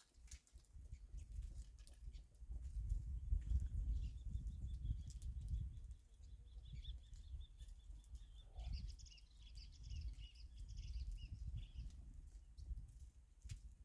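A bird singing a long, rapid series of high chirping notes, starting about four seconds in and ending near the end, over a loud low rumble.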